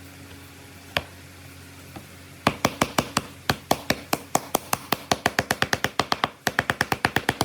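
Wood being struck in a fast, even run of sharp knocks, about six a second, after a single knock about a second in, with a brief pause near the end.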